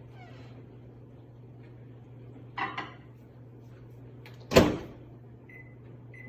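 Microwave oven being loaded and set: a double click, then the door shutting with a sharp clunk about four and a half seconds in, followed by two short keypad beeps near the end.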